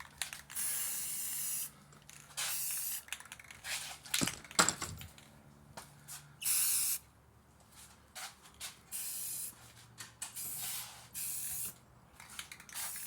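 Aerosol spray can of engine enamel hissing in short bursts of about a second, some seven times with pauses between, as another coat goes onto a motorcycle frame. A few sharp clicks come about four seconds in.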